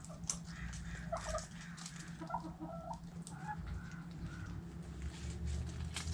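Backyard hens clucking softly in short calls while pecking at food scraps, with many sharp little clicks throughout and a steady low hum underneath.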